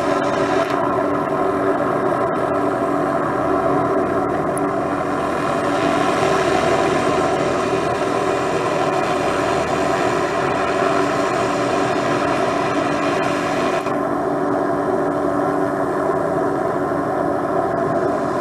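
MD500 turbine helicopter running steadily, with a dense stack of steady engine and rotor tones under a hiss that grows stronger in the middle and drops away near the end.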